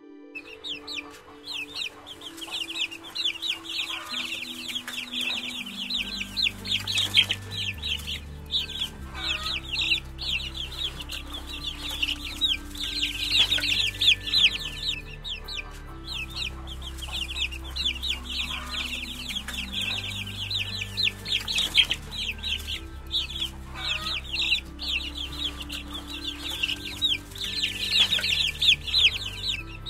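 A brood of young chicks peeping nonstop: many shrill, rapid, downward-sliding cheeps overlapping, with background music underneath.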